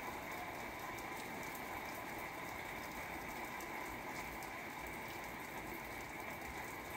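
Steady rain, a dense patter of many small drops.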